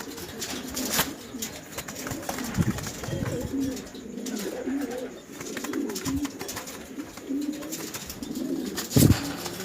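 Several pigeons cooing in overlapping low, wavering calls, with a few sharp knocks and a loud thump near the end.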